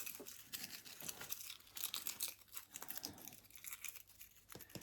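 Dry leaf litter crinkling and crackling as it is handled and scattered by hand into a tarantula enclosure: a fast run of small faint crackles that thins out near the end.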